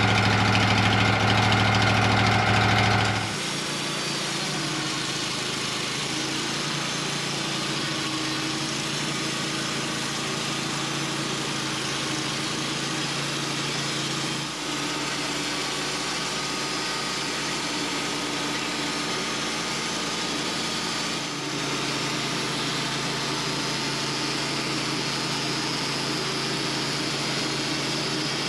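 Band sawmill running steadily, sawing through a spruce log. It is louder for the first three seconds, then drops suddenly to a lower, even level that holds.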